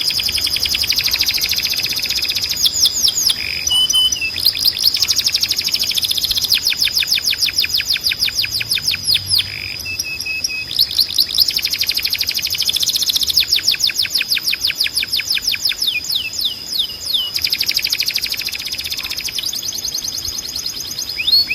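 Canary singing: rapid trills of quickly repeated notes in changing phrases, broken by short pauses and a few brief held notes, over a steady high tone.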